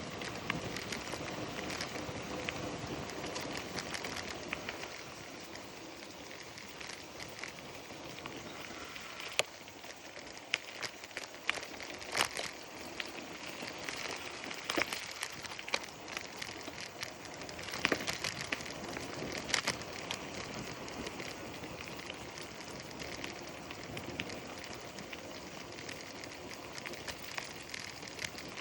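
A bicycle ride: a steady rushing noise of tyres and air, with scattered crackles and sharp clicks that are busiest midway through.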